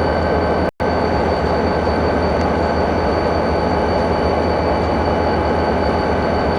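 Diesel locomotive running steadily, a constant low engine hum with a steady whine of several tones above it. It cuts out completely for an instant under a second in.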